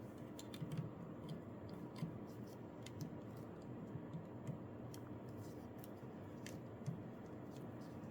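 Faint handling of a plastic Dino Megazord toy figure: scattered light clicks and taps as parts are fitted together by their tabs, over a low steady hum.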